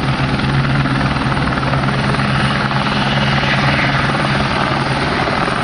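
Steady, loud drone of an aircraft in flight, an engine and rotor or propeller running without change.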